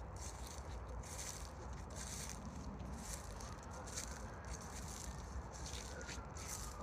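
Irregular rustling and crackling over a low, steady rumble.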